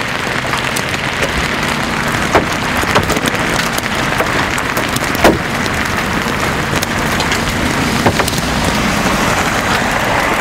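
Heavy rain with hail falling, a steady hiss broken by a few sharp knocks of hailstones striking a hard surface about two, five and eight seconds in.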